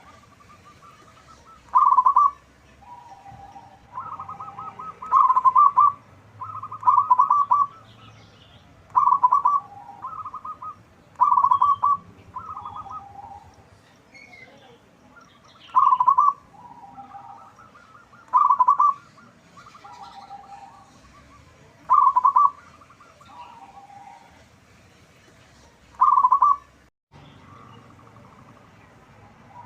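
Zebra dove (perkutut) cooing: loud rippling coo phrases that step from a higher note to a lower one, repeated every two to three seconds, with softer coos between.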